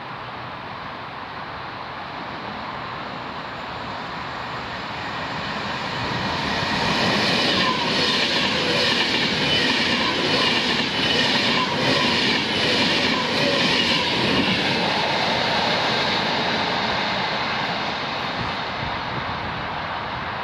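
Class 390 Pendolino electric train passing through non-stop: a rushing wheel-on-rail noise that builds over several seconds, peaks with a rapid run of wheel clicks over rail joints, then fades as the train draws away.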